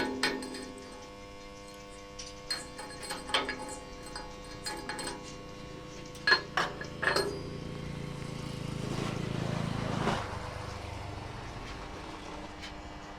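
Sharp metal-on-metal clinks and taps at irregular intervals, from knocking welding slag off steel. Under them runs a steady machine hum, and a low rushing sound swells from about eight seconds in and cuts off sharply about ten seconds in.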